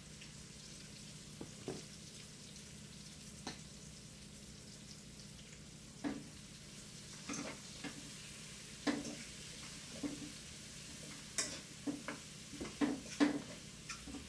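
Vegetables sizzling as they fry in a steel pot on a gas stove, over a steady low hum. From about six seconds in, a spoon knocks and scrapes against the pot more and more often as they are stirred.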